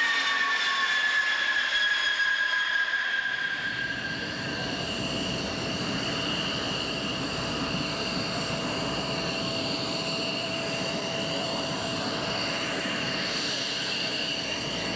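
Large military transport aircraft flying low past the crowd: its engine whine slides down in pitch as it goes by during the first few seconds. A steady engine roar and whine follow.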